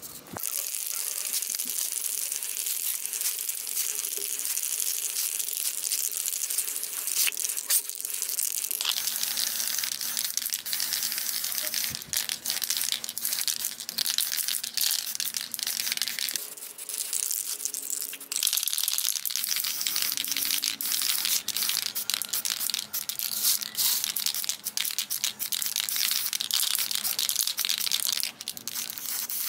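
Abrasive scraping of rusty metal fan parts: a continuous dry, scratchy rasping made of many quick strokes, with a few short breaks.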